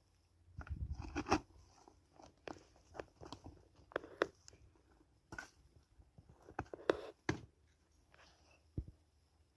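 Irregular crunching and snapping with rustling handling noise: a dozen or so sharp clicks and short crackles at uneven intervals, with a dull low thump about a second in.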